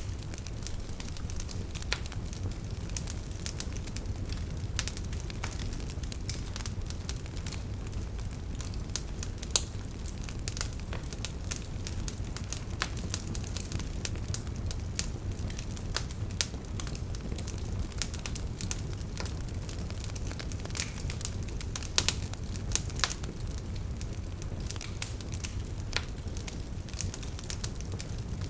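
Wood campfire burning, with frequent irregular crackles and pops, a few sharper pops standing out, over a steady low rumble of the flames.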